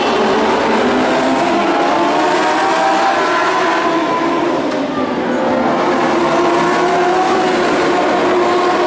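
Dwarf race cars' motorcycle engines running hard on track, several engine notes overlapping and rising and falling.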